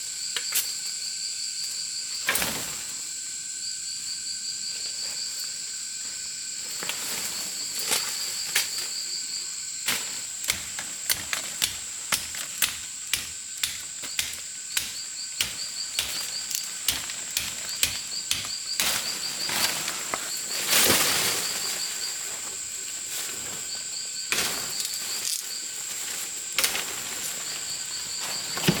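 Insects droning steadily, with a high chirping trill that starts and stops every few seconds. Through the middle comes a run of sharp knocks, about two a second, and a brief louder rustle near the end of them.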